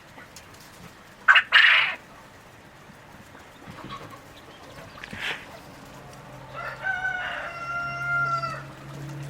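Chickens calling: a loud, short squawk about a second in, then a rooster crowing, one long call of about two seconds near the end.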